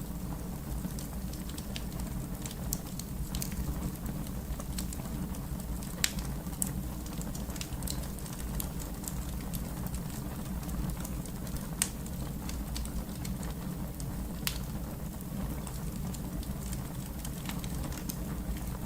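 Wood fire crackling: frequent sharp pops and snaps over a steady low rumble. A few louder pops stand out about six, twelve and fourteen seconds in.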